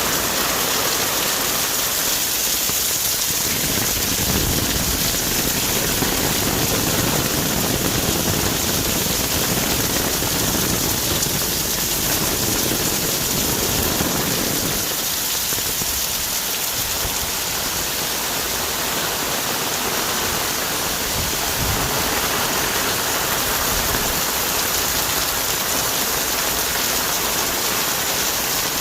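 Heavy rain falling on rainforest trees and foliage: a dense, steady hiss of countless drops.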